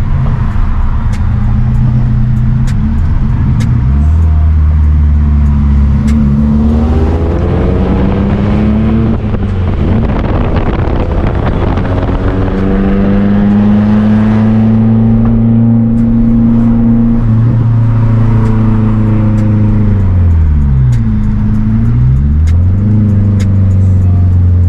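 Car engine under hard acceleration through the gears: its pitch climbs, drops at each shift and climbs again, holds steady for a few seconds of cruising in the middle, then falls and rises again near the end.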